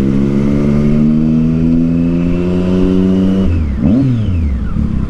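Triumph Street Triple 675's inline three-cylinder engine through a Yoshimura aftermarket exhaust, pulling under throttle with its pitch rising slowly for about three and a half seconds. It then drops off, gives one quick rev that rises and falls, and settles to a lower, steady running note.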